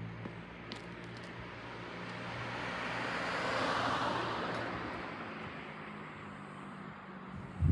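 A car passes by: its road noise swells to a peak about four seconds in and fades away. A short thump comes at the very end.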